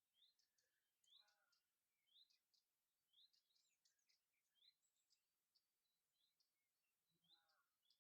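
Very faint birdsong: one bird repeats a short rising chirp about once a second, with other small birds calling thinly around it.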